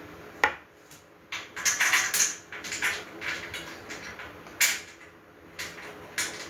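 Grill parts being handled and fitted together during assembly: irregular clicks, knocks and short scraping sounds, with a sharp knock about half a second in and another just past the middle.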